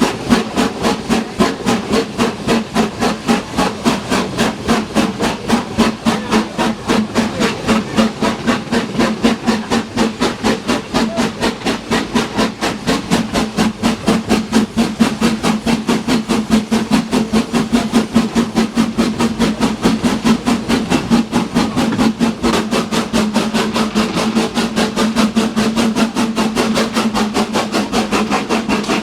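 Steam locomotive working hard, its exhaust beating fast and evenly at about four beats a second.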